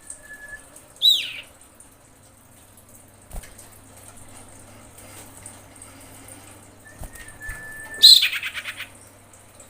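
Female common iora calling for a male: a thin steady whistle ending in a loud falling note, then again about seven seconds in, this time with a quick run of falling notes after it.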